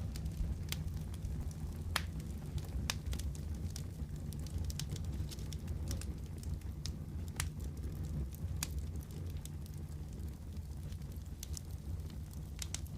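Wood fire crackling in a fireplace: a steady low rumble of the flames with scattered sharp pops and snaps, a dozen or so in the stretch.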